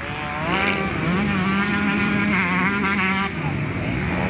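250 cc motocross bikes racing, their engines revving up hard about a second in, then holding and wavering in pitch through the throttle, with another rev rising near the end.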